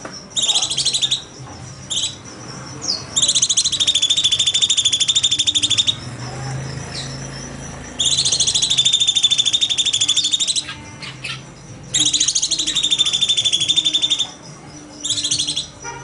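Cucak cungkok singing loud, long phrases of rapid, chattering trills. Three of them last two to three seconds each, with short calls before and after and brief pauses between.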